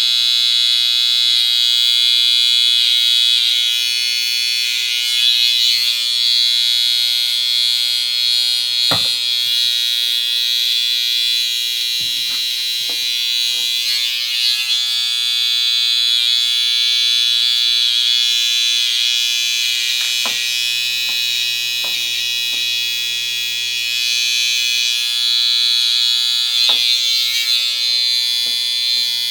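Electric hair clippers buzzing steadily, with a few brief knocks along the way.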